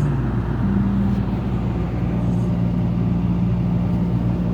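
1991 Honda Accord's four-cylinder engine idling steadily, warming up after a cold start in about 12-degree cold.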